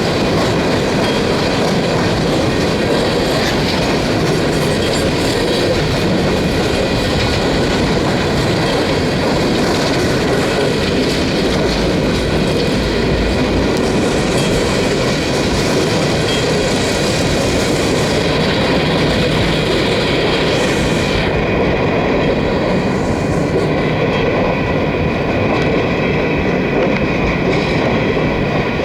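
Empty coal hopper cars of a freight train rolling past, with steady wheel-and-rail rumble, clickety-clack over rail joints and a thin high wheel squeal; the hiss drops away about two-thirds of the way through.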